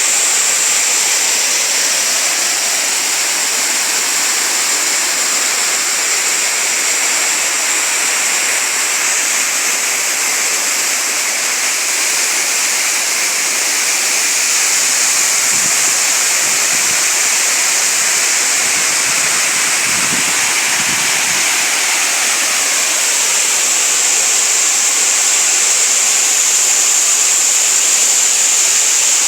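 Waterfall and stream: water cascading and rushing over rocks in a steady, even hiss, with a few faint low thumps about two-thirds of the way in.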